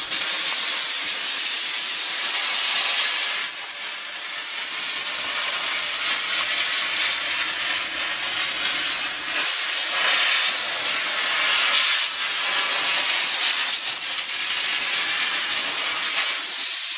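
STEMAR dry-steam cleaner hissing steadily through a focused nozzle as it steams along mattress piping and crevices to kill bed bugs and their eggs. The jet eases off and swells back a few times.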